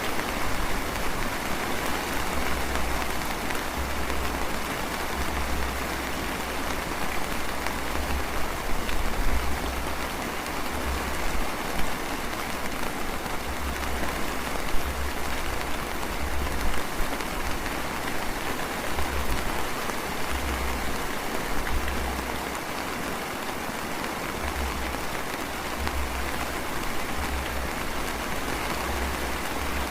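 Light rain drizzling steadily onto surfaces, an even continuous patter, with an intermittent low rumble underneath.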